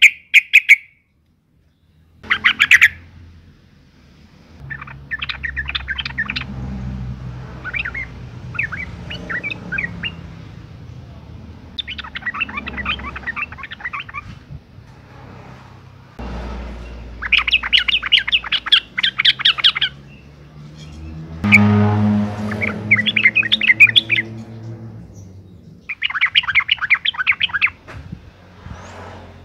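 Female yellow-vented bulbul (trucukan) giving its breeding call to attract males: bursts of rapid, bubbly chattering notes, repeated every couple of seconds.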